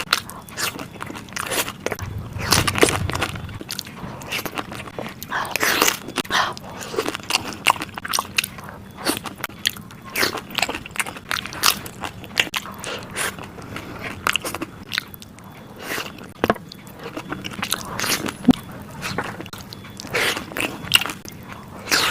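Close-miked eating of dahi puri: crisp puri shells filled with yogurt being bitten and chewed, with many irregular crisp crunches throughout.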